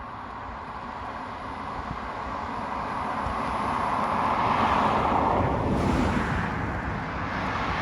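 A road vehicle passing, its tyre and engine noise swelling to a peak about five seconds in and then fading, with another vehicle starting to approach near the end.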